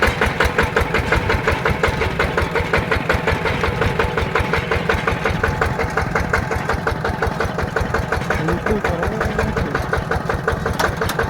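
Single-cylinder diesel engine of a mini tractor running steadily while driving, with an even, rapid chugging beat.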